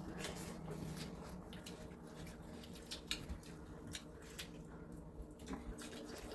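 People chewing and eating close to the microphone: irregular small wet clicks and smacks, over a faint steady hum.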